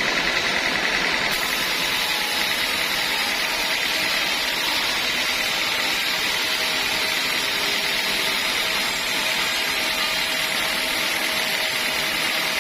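Sawmill machinery running steadily: a constant mechanical whir with a faint steady high tone and no distinct knocks.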